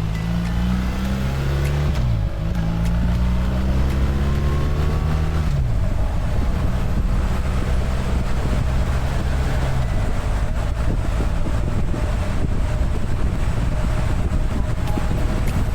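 BMW R1300 GS boxer-twin engine pulling hard, its pitch rising, dropping with an upshift about two seconds in and again after about five and a half seconds, then running at a steady speed with wind rushing past.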